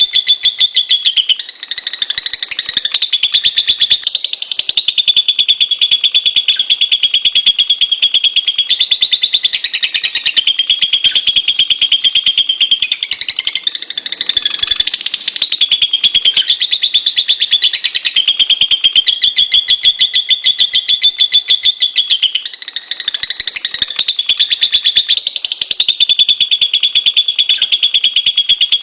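Lovebird chattering in one long, unbroken, high-pitched trill of very rapid notes, its pitch stepping up and down now and then.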